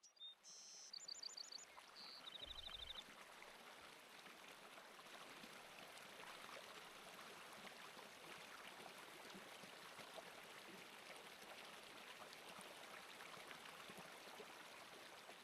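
Steady hiss of running water, like a forest stream.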